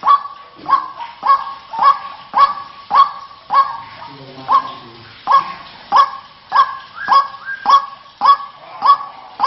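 White-breasted waterhen (ruak-ruak) calling, one short note repeated about twice a second, with a brief pause about four seconds in.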